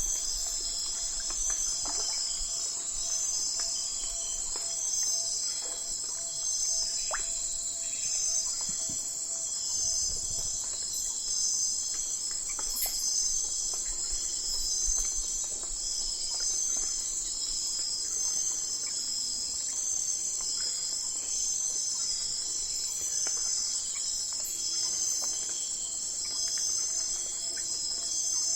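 Night-time chorus of crickets and other insects: a constant high-pitched trill with evenly pulsing chirps beneath it.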